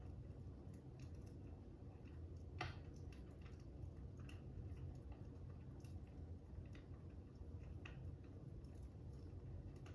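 Wood fire crackling: scattered, irregular sharp pops over a low steady rumble.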